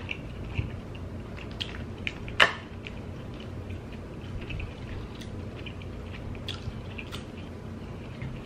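Close-miked wet chewing and mouth sounds of someone eating Dungeness crab, with scattered small clicks and one louder sharp click about two and a half seconds in.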